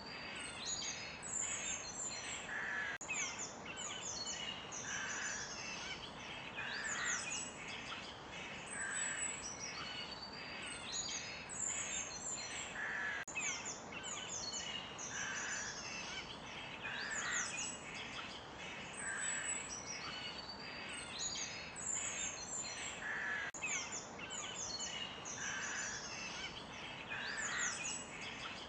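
Chorus of forest songbirds: many short high chirps and quick falling whistles from several birds overlapping, over a steady background hiss.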